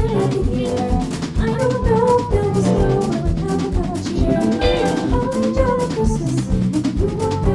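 Jazz combo playing an instrumental Christmas number, with a drum kit keeping a steady beat under the melody.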